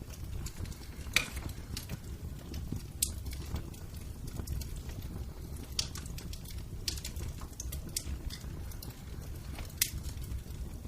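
Wood fire burning in a fireplace: a low steady rumble with scattered sharp crackles and pops, the loudest about a second in.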